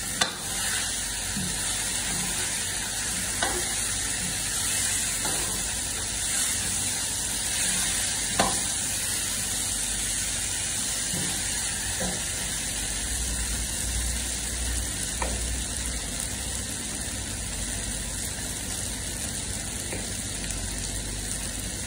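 Mutton and potato pieces sizzling in oil in a karahi as they are stir-fried with a metal ladle. A steady frying hiss runs throughout, with a few sharp clinks of the ladle against the pan scattered through.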